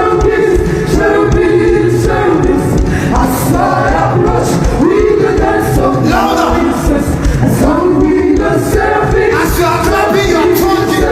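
Worship singing: voices singing together over a steady low beat, at a loud, even level.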